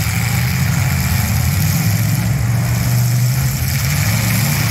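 Several demolition derby cars' V8 engines running together in a steady, dense drone.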